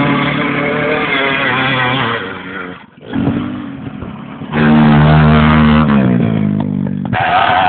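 Motorcycle engines revved hard and held at high revs against the rev limiter, one steady high engine note after another. The sound changes abruptly about three seconds in, again a second and a half later, and again near the end.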